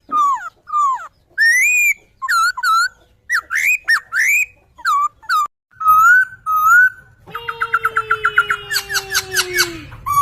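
Poksay (laughingthrush) singing: a run of clear whistled notes sliding up and down. From about seven seconds in comes a long, slowly falling tone under a fast stuttering series of notes.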